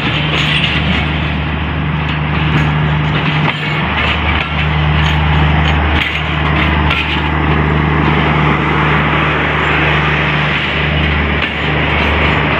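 Pakistan Railways passenger train rolling past at close range, its coaches and power van going by with a steady low engine hum under continuous wheel-and-rail noise.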